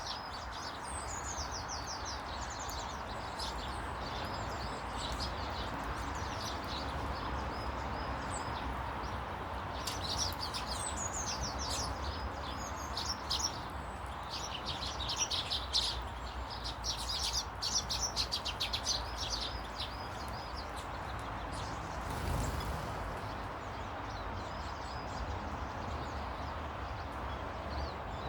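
Small birds chirping and twittering in quick runs of short high notes, busiest in the middle stretch, over a steady background hiss and low rumble. There is a brief swell of noise about three-quarters of the way through.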